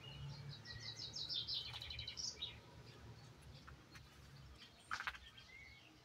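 A songbird singing a quick twittering phrase of rapid high chirps, then quiet, with one sharp click about five seconds in, over a faint low steady rumble.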